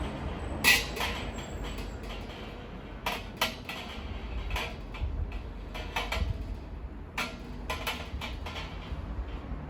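Steel parts of a fire pit and its trivet clanking and clinking as they are handled and set in place. There is one sharp clank about a second in, then a string of lighter knocks over a low background rumble.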